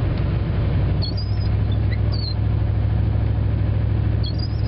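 Vehicle cabin with the engine and road noise as a steady low drone, and the windshield wipers squeaking in short high chirps on their sweeps, about a second in, about two seconds in, and again near the end.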